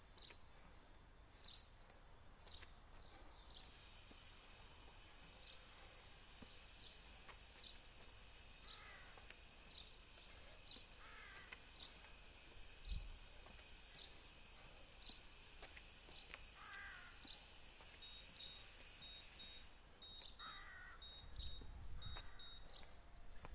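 Faint outdoor birdsong: a short high falling note repeated about once a second, with a few lower chirping phrases now and then. A steady high hiss sits underneath through most of it and stops near the end.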